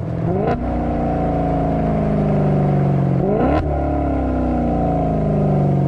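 Maserati GranTurismo Sport's 4.7-litre V8 on the move. The revs jump quickly twice, about half a second in and again near the middle, each time with a throttle blip on a downshift, and fall slowly in between as the car slows.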